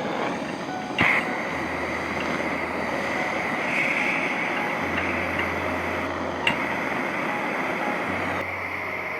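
Takei kerosene pressure burner running with a steady rushing noise and a faint whistling tone. Two short clicks come through it, about a second in and again about six seconds in.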